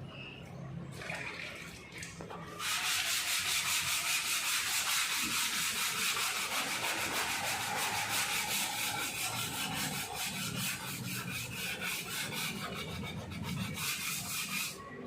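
Sanding of hardened body filler on a car panel: a loud, rasping scrub of quick, even strokes that starts a few seconds in and stops abruptly just before the end.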